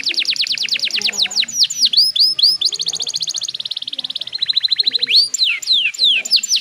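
Domestic canary singing a rapid song of trills, each made of fast repeated down-sweeping notes, switching to a new trill every second or so, with a buzzier rattling trill about two-thirds of the way through.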